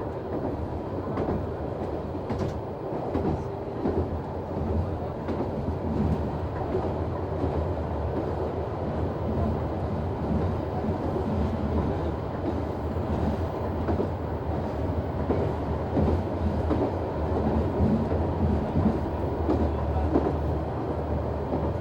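Noto Railway NT100 diesel railcar running at speed, with a steady engine and running hum and the wheels knocking over rail joints (gattan-goton).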